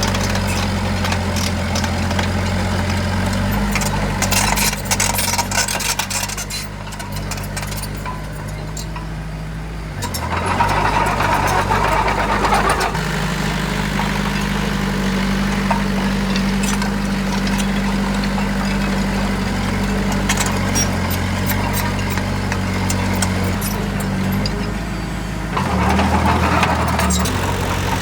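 Heavy diesel engine of earthmoving machinery running steadily, revving up about a third of the way in and again near the end, with scattered clanks over it.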